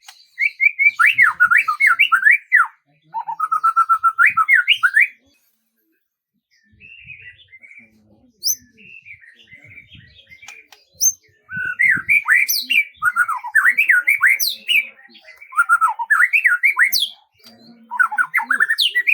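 Songbird singing in fast warbling phrases of quick rising and falling whistled notes, with a brief silence and a quieter stretch of softer calls about a third of the way through before the song picks up loudly again.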